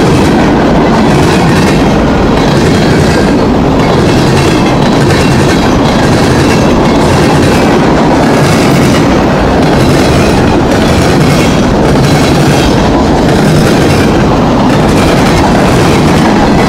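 Train cars rolling past close by, a loud, steady clatter of steel wheels on the rails.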